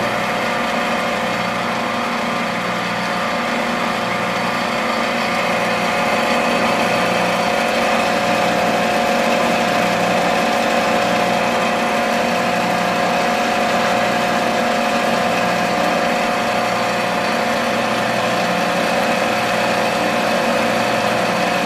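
A motor running steadily: a constant, unchanging hum with a few fixed tones.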